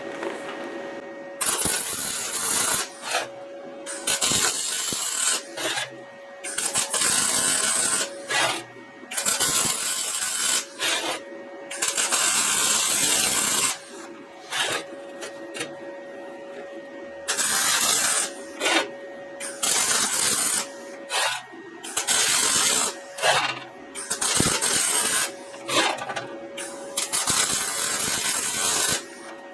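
Electric arc welding on steel railroad spikes with a YesWelder MP200: a string of short crackling weld runs, each lasting one to two seconds, with brief pauses between them. A faint steady hum runs underneath.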